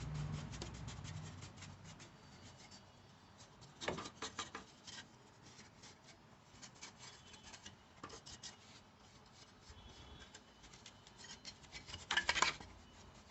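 Intermittent rubbing and scraping, with clusters of small clicks: louder about four seconds in and again near the end.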